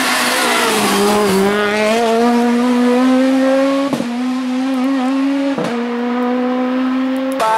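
Rally car engine held at high revs, its note climbing slowly, broken briefly twice.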